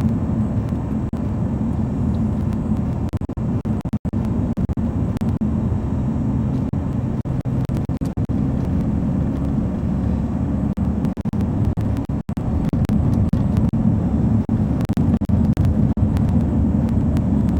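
Steady engine and road noise of a vehicle on the move, a continuous low drone that grows a little louder in the second half.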